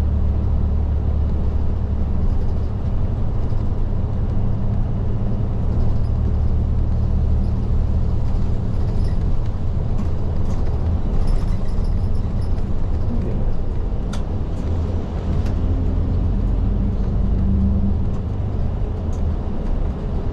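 Isuzu Erga city bus (LDG-KV234Q3) running at road speed, heard from inside the cabin at the front: a steady low engine and road drone, with a few light rattles and clicks from the interior.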